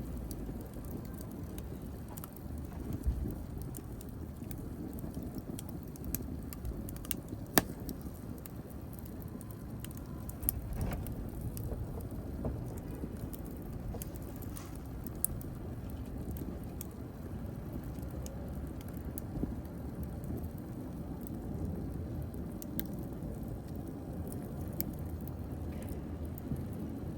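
Wood fire burning in a fireplace: a steady low rumble of flames with scattered crackles and sharp pops of burning wood. One pop stands out, about a quarter of the way in.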